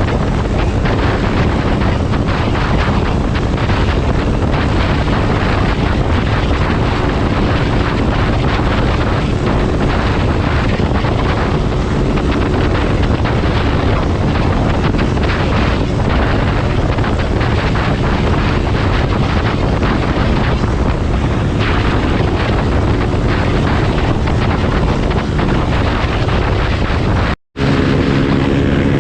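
Motorcycle engine running under way, buried in heavy wind rush on the microphone. Near the end the sound cuts out for a moment and comes back as a steadier engine note.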